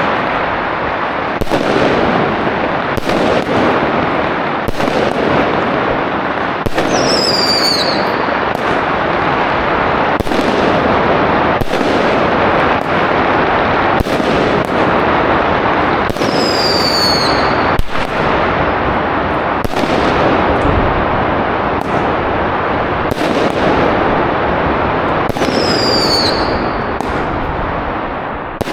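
Fireworks and firecrackers going off: a dense, continuous crackle with sharp bangs every second or two, and a high whistle falling in pitch three times.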